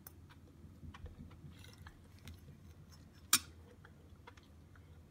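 A person chewing a mouthful of fried late waxcap mushrooms, with small wet mouth clicks. There is one sharp clink about three seconds in, as from the spoon touching the plate.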